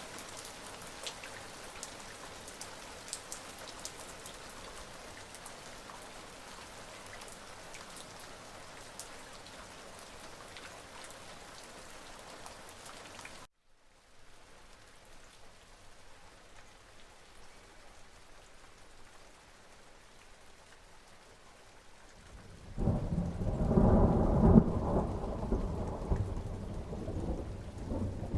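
Steady rain with individual drops tapping. About halfway it cuts briefly and comes back softer. Near the end a loud roll of thunder rumbles in and runs on over the rain.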